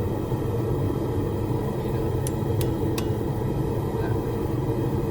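Gas forge burners running with a steady, even roar. Three light metal clinks come two to three seconds in.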